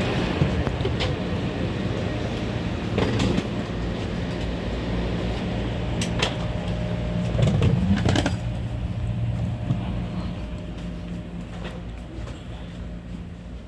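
Steady low hum of a high-speed train and station platform, with scattered clicks and metallic knocks. The loudest clatter comes about eight seconds in, and the hum fades slowly toward the end.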